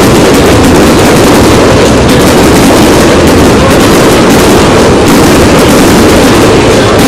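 Fireworks display going off in a dense, unbroken barrage of bangs and crackling, with no gaps. It is loud enough to overload the recording.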